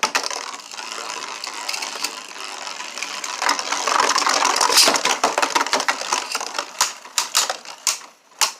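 Two Beyblade Burst spinning tops, Turbo Achilles and Genesis Regalia, whirring and grinding against each other in a plastic stadium: a dense, rapid clatter of contact that thins out near the end into a few separate sharp clacks as they trade hits.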